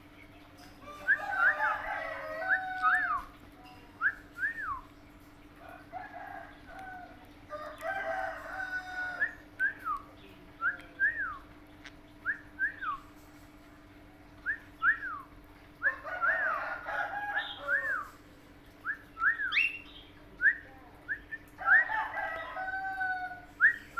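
Pet parrot whistling: many short, quick rising-and-falling whistle notes, broken about every six seconds by a longer warbling, crow-like phrase. A steady low hum runs beneath.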